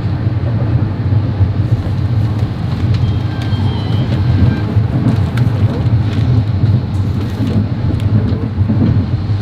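Passenger train in motion: a loud, steady rumble of the carriage running on the rails, with a few faint clicks.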